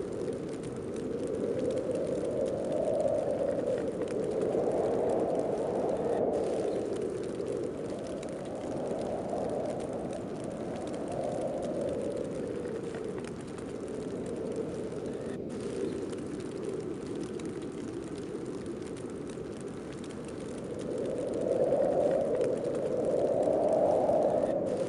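Howling wind of a heavy snowstorm, blowing in gusts that swell and fade, rising a little in pitch as each gust builds; the gusts are strongest in the first half and again near the end.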